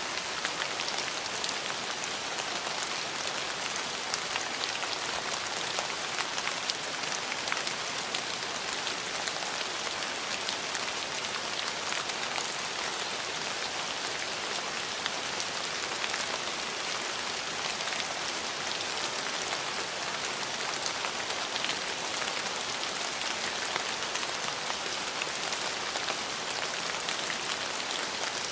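Steady rain falling on a hard surface, an even hiss with many fine individual drop ticks.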